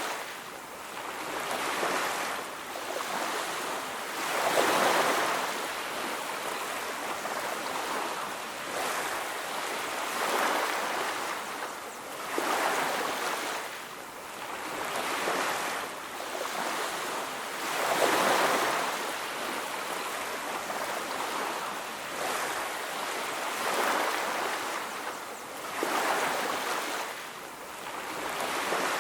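Ocean surf: waves washing onto a beach, a steady hiss of water swelling and ebbing every few seconds, with no music.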